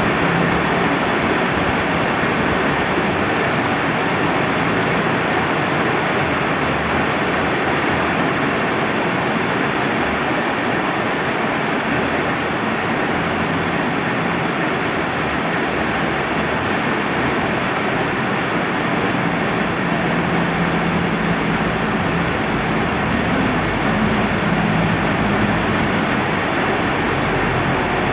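Steady rain falling beside a flowing river, a constant even hiss and rush of water with no separate drops or events standing out.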